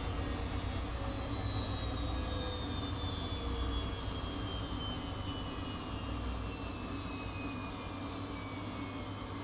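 Atlant 70C1010 washing machine's drum motor running down from a spin: a whine falling steadily in pitch over a low hum.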